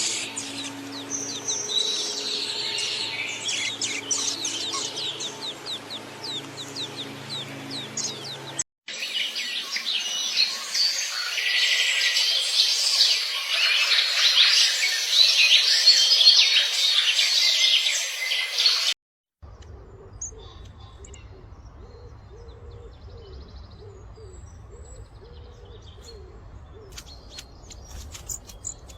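Songbirds singing and chirping in three spliced recordings, with abrupt cuts about 9 and 19 seconds in. The middle recording is a loud, dense chorus; the first has quick sweeping calls over a low steady hum, and the last is quieter, with scattered faint chirps over a low rumble.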